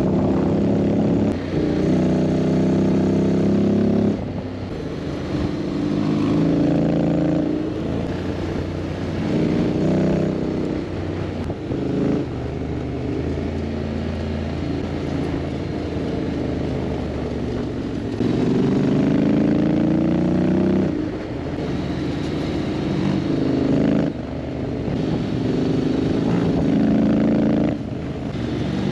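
Honda X-ADV 750's parallel-twin engine on the move, its pitch climbing several times as it pulls and then dropping back as the revs fall.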